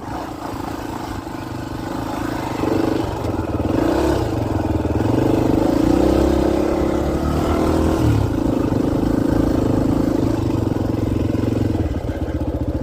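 Dirt bike engine running under way, the revs rising and falling, then dropping to a steady, even idle about a second before the end.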